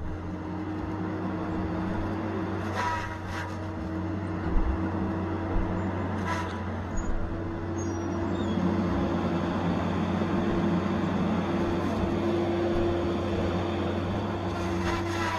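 Tigercat 870C feller buncher running steadily under work, with a few short sharp knocks, about three and six seconds in, from the machine handling the cut willow.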